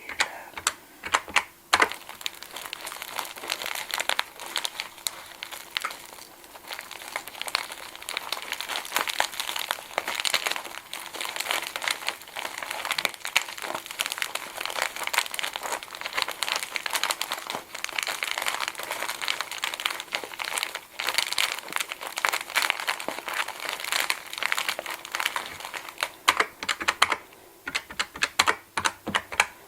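Close-up crinkling and crackling, with a dense run of many small clicks. Near the end it thins out into sparser, sharper single clicks.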